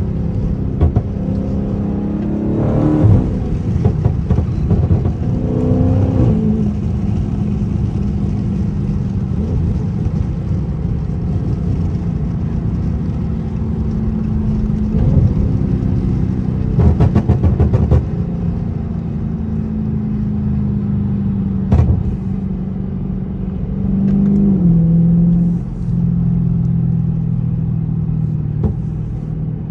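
Dodge Charger 392's 6.4-litre HEMI V8 exhaust while driving, the revs rising and falling through the gears. The pop tune shows as a quick string of sharp exhaust pops about 17 seconds in and a single pop near 22 seconds.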